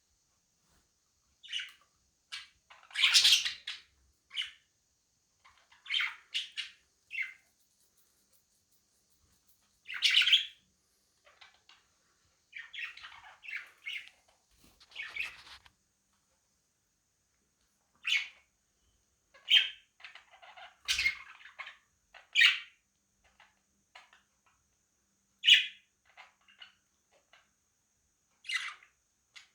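Budgerigars chirping in short, scattered calls, with a few louder, harsher squawks among them and brief silent gaps between.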